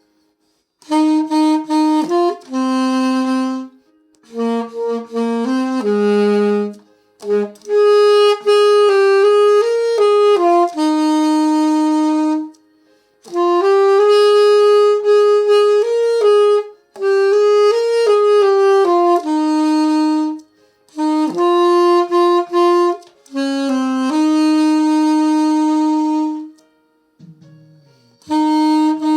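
Solo saxophone playing a slow melody without accompaniment, in phrases of a few seconds with short breath pauses between them.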